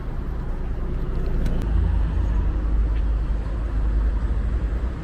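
Low, steady vehicle rumble that grows louder about two seconds in, with a couple of faint clicks.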